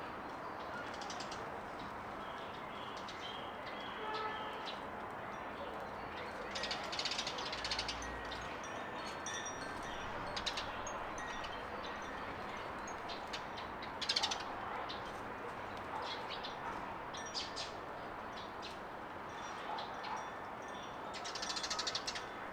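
Small garden birds chirping in short scattered bursts over a steady background hiss, the loudest bursts about two-thirds of the way through and near the end.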